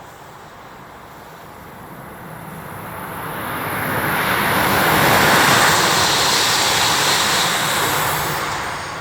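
Shinkansen bullet train passing through the station platform at high speed: a rushing noise that builds over a few seconds, peaks loudly near the middle, then fades away.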